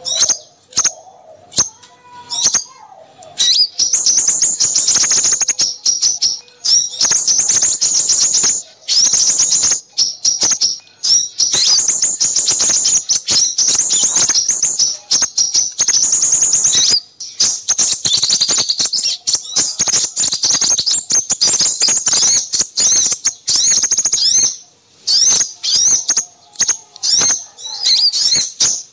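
Noisy chatter of several small birds, a bird-lure recording for crimson sunbirds: rapid high chirps and twittering trills crowding over one another. The chatter is sparse at first, then near-continuous from about three seconds in, with a few brief pauses.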